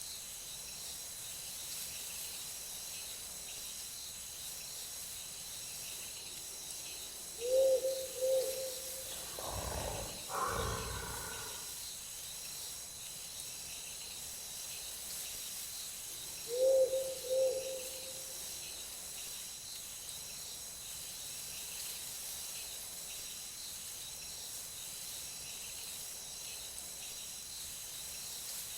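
Night forest ambience: insects chirring steadily at a high pitch, with a low two-note hoot about seven seconds in and again about seventeen seconds in. A brief, louder, noisier sound comes between the two hoots.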